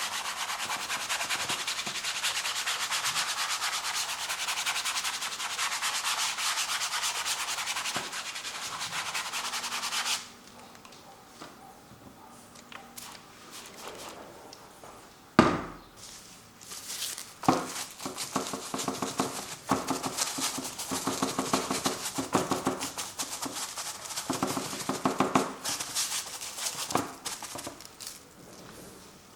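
A painting tool rubbing and scrubbing across canvas: a steady, rapid rubbing for about ten seconds, then shorter scratchy strokes with pauses between them. There is one sharp knock about fifteen seconds in.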